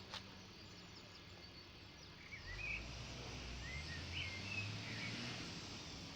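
Outdoor background noise with a few short bird chirps through the middle, over a low rumble that comes in about two seconds in; a single click at the very start.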